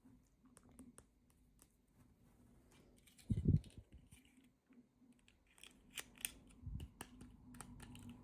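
Hands opening and handling small toy packaging: scattered light clicks and snips, with a soft thump about three and a half seconds in and a busier run of clicks near the end.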